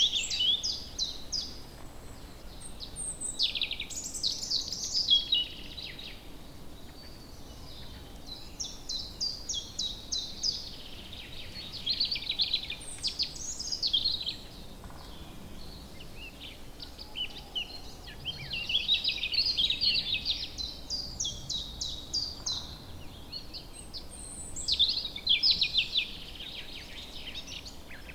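Woodland birds singing: repeated song phrases of rapid trills and chirps every few seconds, over a faint steady background hiss.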